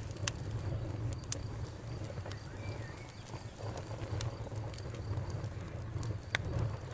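Campfire crackling: sharp pops and snaps at irregular intervals over a steady low rumble.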